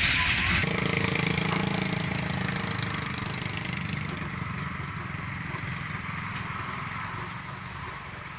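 A car engine running at low, steady revs, slowly fading as the car moves away. A loud rushing noise cuts off abruptly about half a second in.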